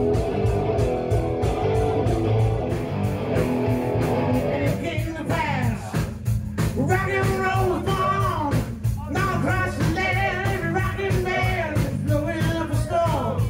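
Rock music with electric guitar and a steady beat. About five seconds in, a melodic lead line with sliding, bending notes comes in over the band.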